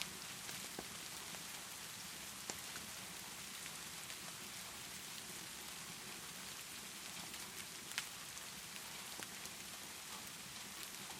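Steady rainfall hissing, with a few sharp pops and crackles from a fireplace; the loudest pop comes about eight seconds in.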